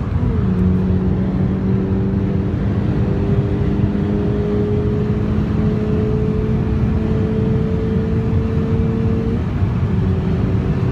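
Car engine and exhaust running at a steady speed, with a brief dip in pitch just after the start and part of the tone falling away near the end.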